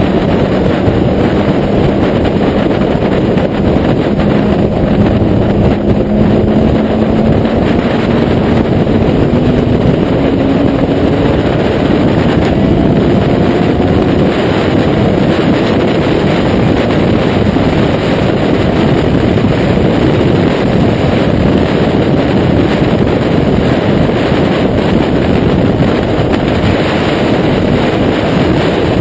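Kawasaki Z800's inline-four engine through a Taylor Made Firetong aftermarket exhaust, running under way. Its note climbs slowly for the first ten seconds or so, then a broad, steady rush covers it.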